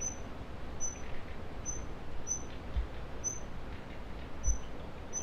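A wild bird repeating a short, high, thin chirp over and over, one to two a second, over a low rumble with two soft low thumps.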